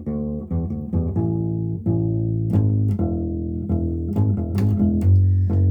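Instrumental passage of a song: plucked guitar notes over a low bass line, changing chord every half second or so, with no singing.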